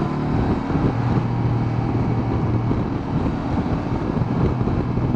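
Honda CB500X's parallel-twin engine running at a steady pace under way, with wind rushing over the rider's microphone.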